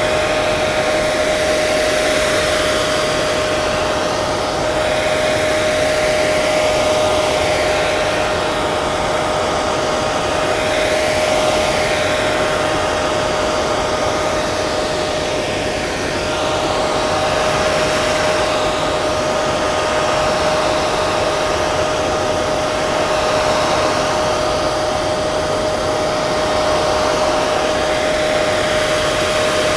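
Hair dryer running continuously: a steady rushing blow of air with a constant motor whine, the hiss swelling and fading slightly every few seconds.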